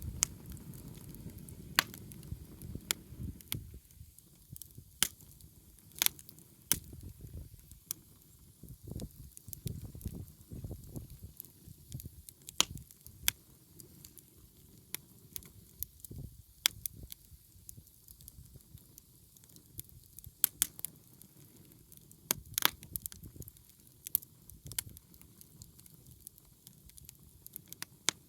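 Wood fire crackling: irregular sharp pops and snaps from burning firewood over a low rumble, the rumble heavier in the first few seconds.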